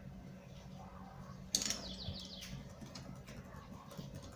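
A bird calling in the background: a sudden series of chirps about a second and a half in, falling in pitch over about a second.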